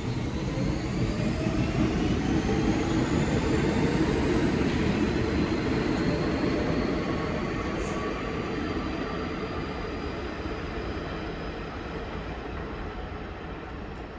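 An R46 subway train accelerating past: a heavy rumble of wheels on rails with the traction motors whining upward in pitch. It is loudest a few seconds in, then slowly fades as the train draws away.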